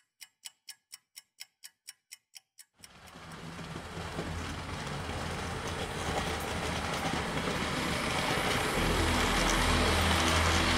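Sharp, regular ticks, about four a second, for nearly three seconds. Then a passing train's rush and low rumble starts and grows steadily louder.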